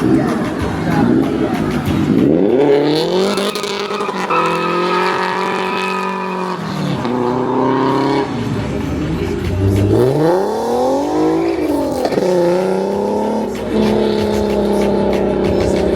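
Car engine revved hard several times, the pitch climbing, held steady at high revs for a second or two, then falling away.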